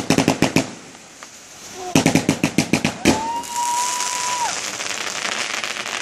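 A fireworks cake firing in rapid volleys: a fast run of sharp pops at the start and another about two seconds in, then a high whistle lasting over a second while a dense crackling sets in and carries on.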